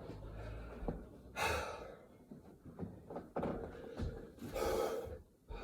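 A man breathing hard, out of breath from a set of burpees: two heavy breaths about three seconds apart, with a few soft thuds between them.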